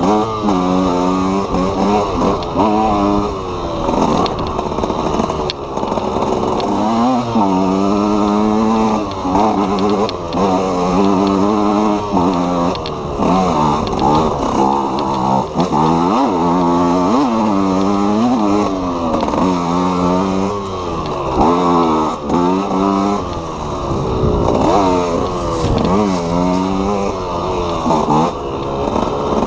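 KTM EXC 125 two-stroke single-cylinder enduro motorcycle being ridden hard. The engine revs climb in pitch over and over and drop back as the rider opens and closes the throttle.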